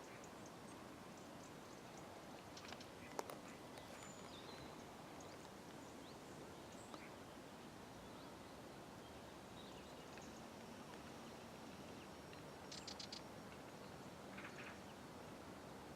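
Quiet outdoor ambience: a faint steady hiss with a few scattered short bird chirps. There is a sharp click about three seconds in, and a quick run of clicks about thirteen seconds in.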